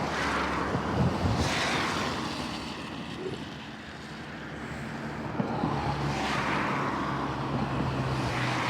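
Two cars pass close by on a wet, flooded road, one peaking about a second and a half in and another around six seconds in. Each brings a swell of tyre hiss and engine noise that rises and fades.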